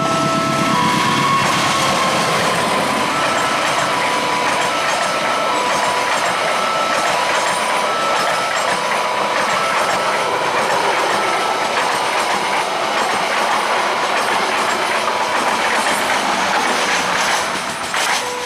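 A train passing at speed over a level crossing: a loud steady rush of wheel-and-rail noise with clatter, easing off near the end as the last cars clear. Underneath, the crossing's electronic warning signal keeps sounding its alternating two-pitch tone.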